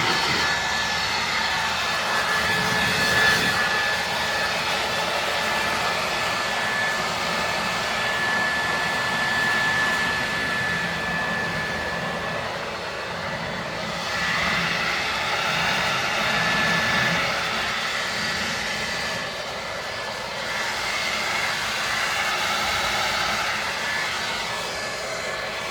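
Ryobi 2000 psi power washer running and spraying water: a steady hiss of spray with a constant high whine, the spray swelling and easing slightly as the jet moves. The whine drops out briefly about halfway through.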